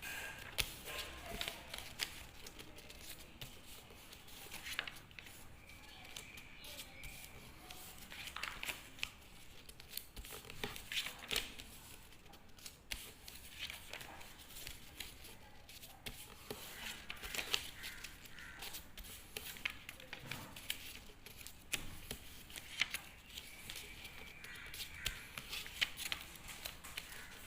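A sheet of paper being folded back and forth into accordion pleats: scattered soft crinkles and creasing crackles of paper.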